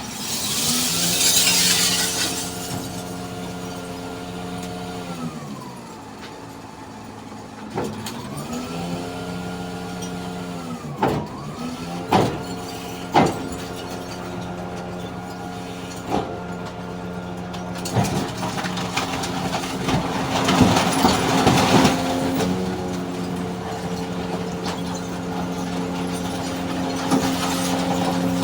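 Truck engine repeatedly rising to a steady pitch, holding, then dropping back, with a few sharp knocks, and a loud air hiss near the start and again past the middle, like air brakes venting.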